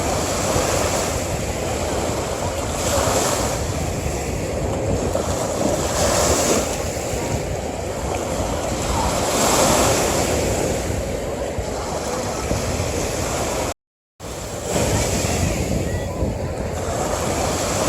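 Ocean surf washing onto a beach: a continuous rush of breaking waves that swells every few seconds. It cuts out for a split second about three quarters of the way through.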